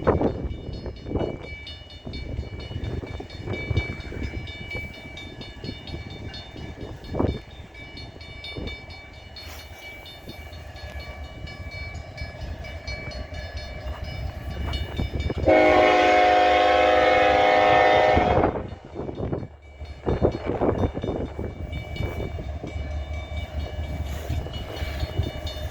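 CN train's locomotive rumbling at low speed, with one long horn blast of about three seconds a little past the middle.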